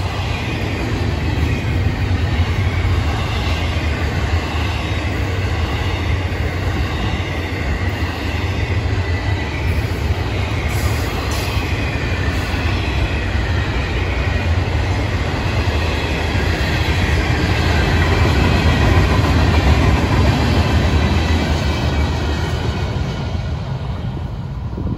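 Florida East Coast Railway freight train of double-stack intermodal well cars rolling past, a steady rumble of steel wheels on the rails. A thin, high wheel squeal sits above the rumble.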